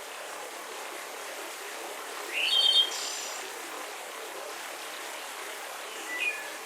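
Forest birds calling over a steady hiss of soft breeze: one loud short call, rising and then ending on a high note, about two and a half seconds in, and a brief chirp near the end.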